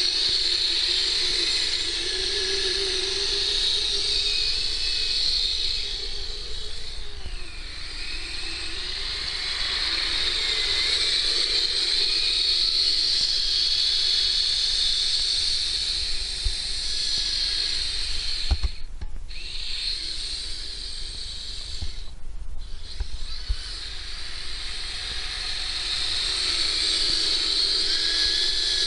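Electric motor and gear drive of a Kyosho Blizzard RC snowcat running as it drives through snow, a hissing whine whose pitch wavers with the throttle. It cuts out briefly twice in the second half.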